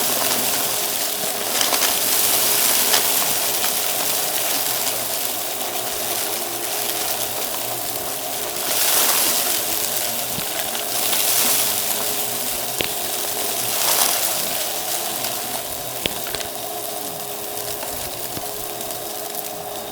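Vacuum cleaner running with its brushroll sweeping up crunchy debris: a steady motor hum and suction rush with scattered clicks and crackles as bits are picked up, and a few louder surges of suction.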